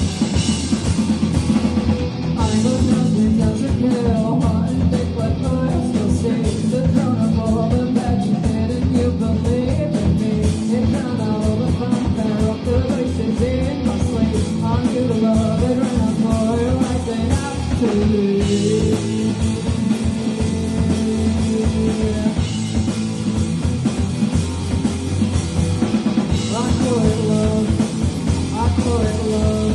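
Live rock band playing: drum kit, guitars and bass, with a melody line over them, loud and continuous.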